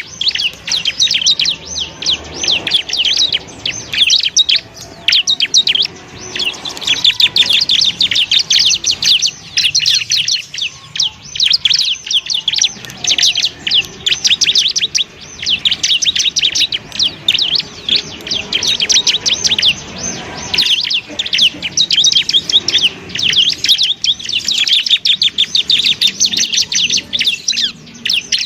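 Bar-winged prinia (ciblek) singing a fast, continuous chattering song of high, rapidly repeated chirps, broken by short pauses every few seconds.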